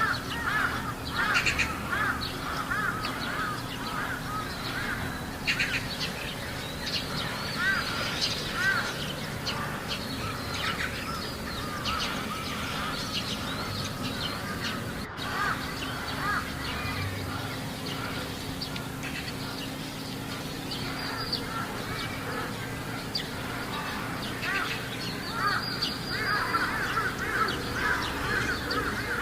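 Crows cawing over and over, several calls overlapping, busiest near the start and again near the end.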